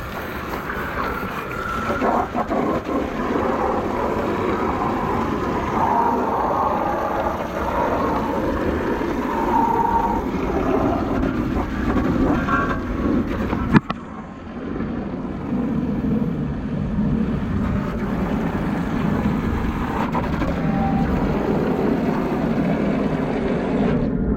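Garden hose spraying water onto and under an outdoor air-conditioner unit, a steady rushing hiss. A single sharp click comes about halfway through, after which the sound is duller.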